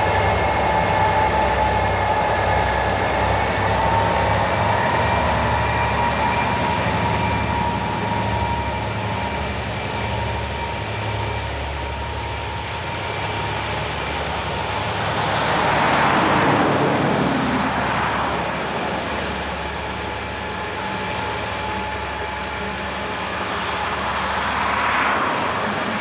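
Diesel freight train passing: the locomotives' low pulsing engine rumble and the rolling wagons, with a steady whine over it, and the noise swelling twice, about two-thirds of the way through and near the end.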